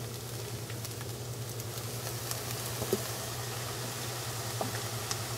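Fried rice and scrambled egg sizzling in a hot pan: a steady hiss with scattered small crackles, over a steady low hum.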